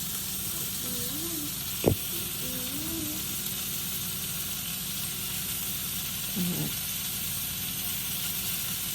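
Pieces of steak browning in a hot pan with a steady sizzle. About two seconds in there is one sharp knock.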